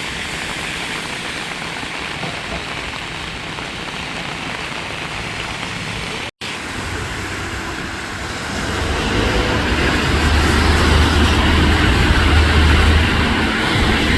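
Bus ride noise: a steady rush of road and engine noise. After a sudden cut about six seconds in, it grows louder, with a low engine hum under it.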